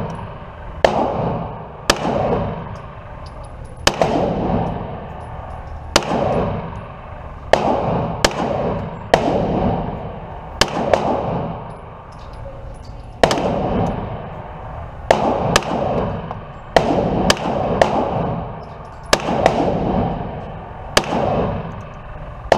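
Shots from a CZ TS2 9mm pistol fired one at a time at an unhurried pace, about sixteen shots spaced one to two seconds apart, each followed by a long echoing decay.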